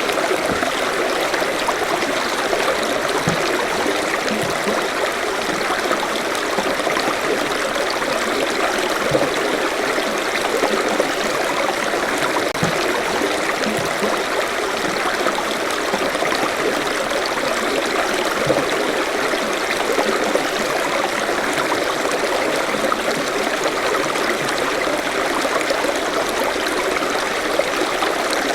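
Forest stream flowing steadily, water rushing and trickling over rocks, with small splashes and gurgles throughout.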